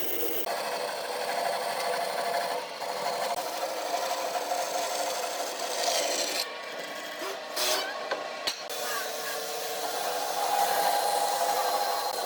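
A tool scraping and rubbing along wood over the steady hum of a running machine. The sound changes abruptly about half a second in and breaks off briefly a few times past the middle.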